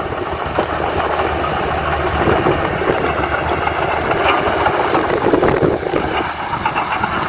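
Heavy diesel earthmoving machinery running steadily, engine noise with a continuous clatter.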